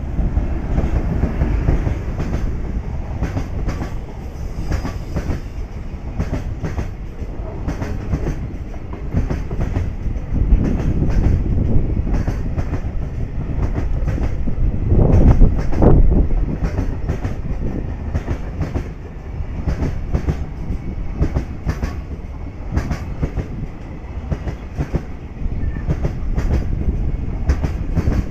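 JR Freight container train passing through without stopping, hauled by an EF510 electric locomotive: the locomotive goes by first, then a long string of container wagons. Their wheels give a continuous rumble and a rapid clickety-clack over the rail joints, loudest a little past the middle.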